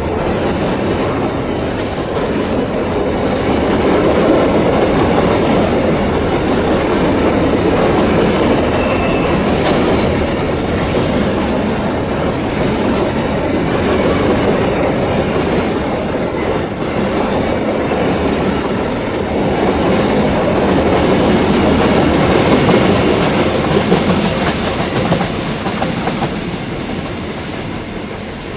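A long string of empty steel coal wagons rolls past on a curve: a steady wheel-and-rail rumble and clatter, with brief faint high wheel squeals now and then. The sound eases off near the end as the last wagons approach.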